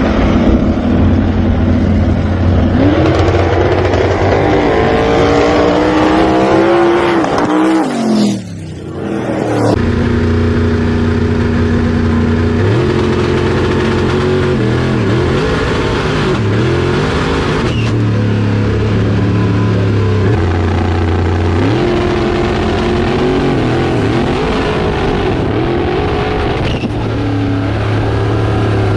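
Drag-racing car engines. One engine climbs steadily in pitch under acceleration and then falls away sharply about eight seconds in. After that, engines run loud and steady with several revs up and back down.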